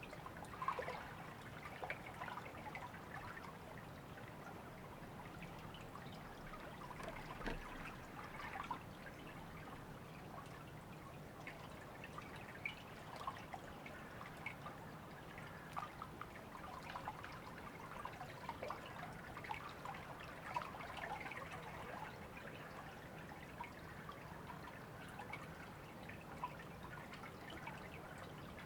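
A river trickling steadily, with small irregular splashes and drips.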